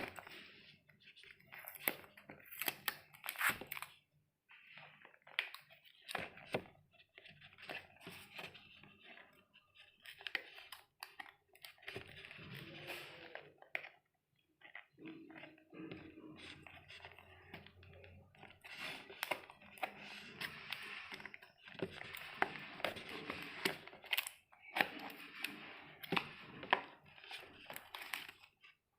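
Hands handling a Nokia 105 keypad phone and its packaging: irregular rustling and crinkling with many small clicks and taps.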